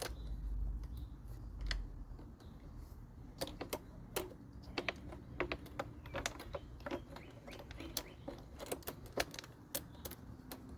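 Irregular light metallic clicks and taps, often in quick pairs or threes, from a wrench working on the carburetor mounting bolts of a small Briggs & Stratton mower engine.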